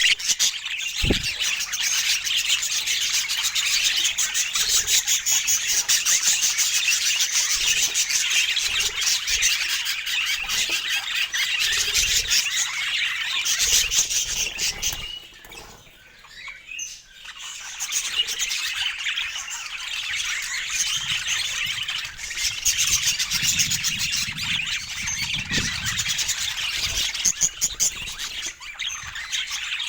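Budgerigars chattering and chirping in a dense, continuous stream of high squawks and twitters, dropping away briefly about halfway through.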